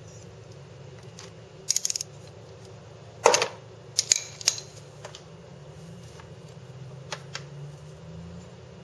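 Metallic clicks and clacks of a hex socket wrench working the hub oil drain bolt on a Vespa LX 150's rear gearbox hub. A short run of clicks comes about two seconds in, the loudest clack a little after three seconds, then a few lighter clicks.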